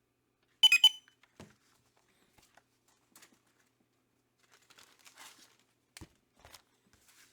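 A brief high-pitched chirp of three or four quick pulses, followed by faint rustling and a soft thump near the end as comics are handled.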